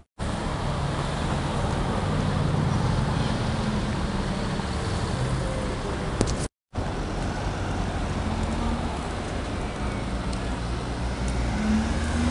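Street traffic with a car engine running low and steady, then near the end a sports car's engine rising slowly in pitch as it accelerates past. The sound cuts out briefly twice.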